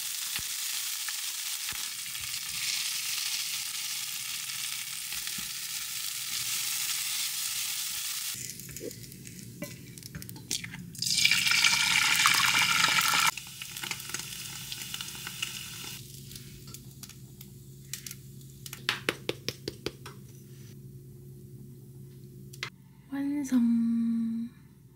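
Frozen garlic fried rice sizzling in a hot frying pan. The loud hiss fades after about eight seconds and flares up again briefly around eleven seconds in. Clicks of a spatula stirring against the pan follow, with a brief low tone near the end.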